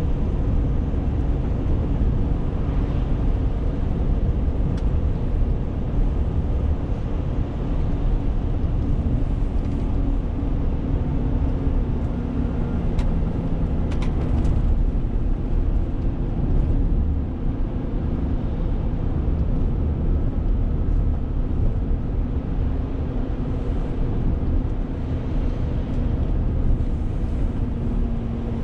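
Renault T520 truck's diesel engine running steadily under way, a constant drone mixed with tyre and road rumble, with a brief dip in level a little past halfway.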